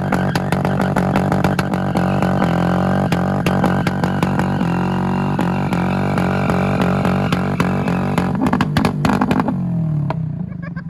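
A car engine held at high revs during a burnout, its pitch nearly steady, with a rapid crackle and hiss over it. The engine lets off about nine and a half seconds in.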